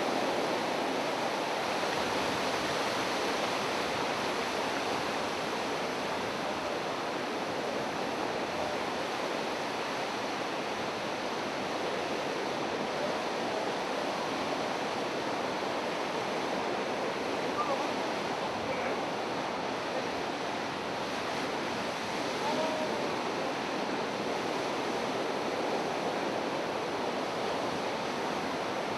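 Steady rushing noise of sea surf.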